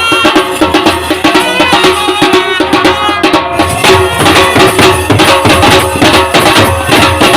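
Loud traditional band music: a wind instrument playing a bending, wavering melody over steady drumming.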